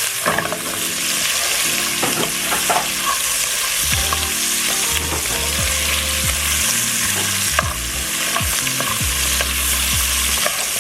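Food frying and sizzling in a hot pan, with a utensil stirring and scraping now and then.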